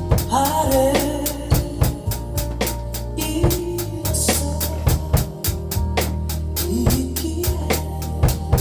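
A beginner drummer playing a drum kit in a steady beat, about four cymbal strokes a second with bass drum and snare, over recorded music with a bass line and melody.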